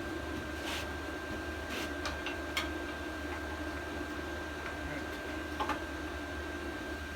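Steady workshop hum with a steady high tone, broken by a few scattered light clicks and clinks, mostly in the first three seconds and once more near the end: small tools and parts being handled at the bench.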